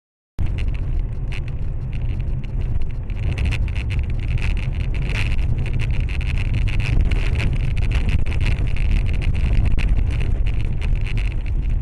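Car road and engine noise picked up by a dash cam: a steady low rumble with constant crackling and rattling, cutting in suddenly about half a second in.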